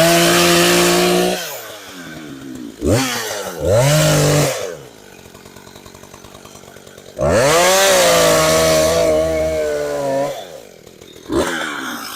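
Gas chainsaw revved to full throttle three times, each run lasting one to three seconds, with a short blip near the end, and dropping back to a quiet, uneven idle between runs.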